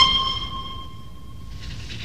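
A ringing tone with several overtones dies away over about a second and a half, over a low rumble. Near the end a fast, even rattle begins.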